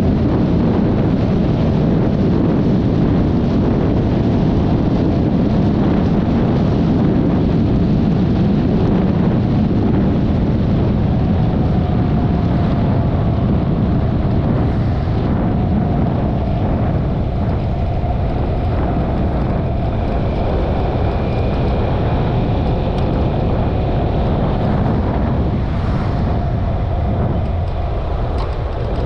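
Wind noise on the microphone over the running engine and tyre noise of a Yamaha XMAX 300 single-cylinder scooter under way. The noise is steady, and a faint steady whine comes in about twelve seconds in.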